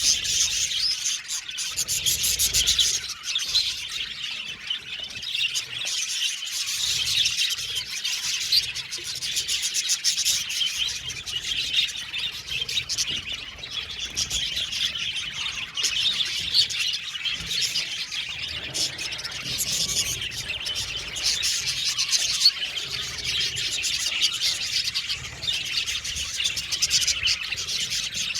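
A flock of budgerigars chirping and warbling together, many birds at once in a dense, continuous chatter.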